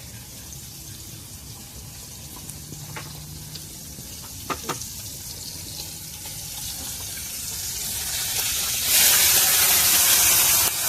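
Water running and splashing as vegetables are washed for a salad. It grows louder toward the end and turns to a loud steady rush about nine seconds in, with a couple of short knocks about halfway through.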